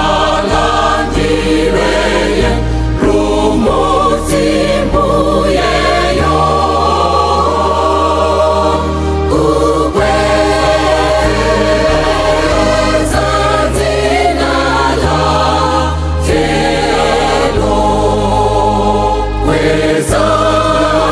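Gospel music: a choir singing in harmony over a bass line that moves in steady held notes.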